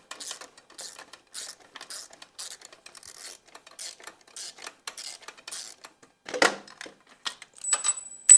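Hand ratchet wrench clicking in quick, even strokes, about three a second, as a bolt is worked on an engine. About six seconds in there is a louder metal knock, and near the end a small metal part clinks with a brief high ring.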